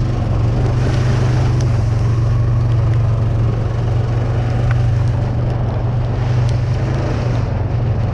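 Off-road vehicle's engine running steadily as it is ridden, a loud, even low drone.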